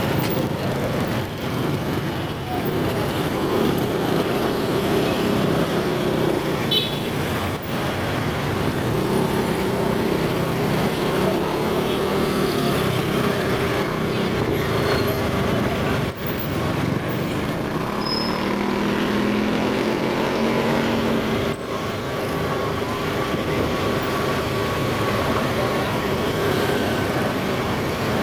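Motorcycle riding in traffic: its engine runs steadily under a constant haze of road and traffic noise.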